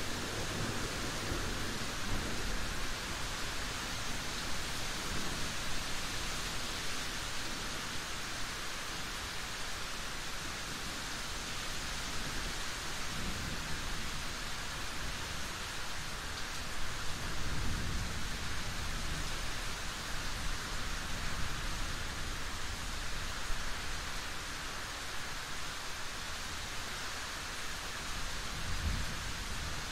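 Steady heavy rain, an even hiss, with low rumbles of thunder swelling and fading several times, the strongest a little past halfway.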